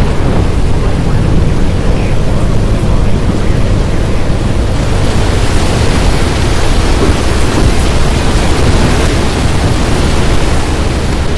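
Loud, steady thunderstorm noise: rain hissing over a deep continuous rumble, the hiss growing brighter about five seconds in.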